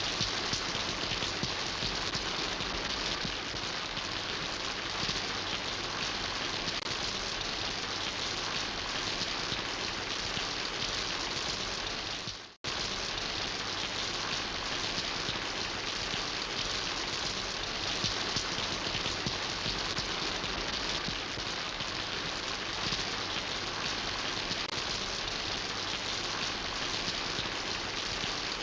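Steady rain falling, an even dense patter. About halfway through it fades out for a split second and then comes straight back.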